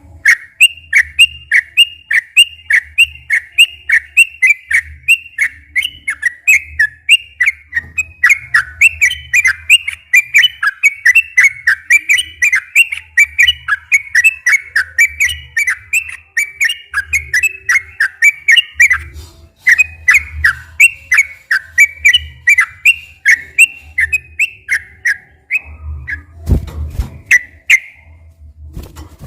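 Yellow-vented bulbul (trucukan) singing a long, fast run of repeated whistled notes, about three to four a second, breaking off briefly about two-thirds of the way through before carrying on. A low thump sounds near the end.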